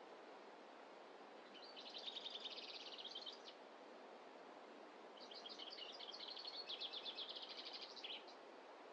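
A songbird singing two rapid, high trilled phrases, the first about two seconds long and the second, a few seconds later, about three seconds long, over a faint steady hiss of background noise.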